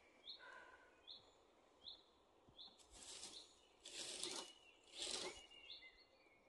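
A small bird repeating a short high call about once a second, with three brief scraping, rustling noises a second apart near the end.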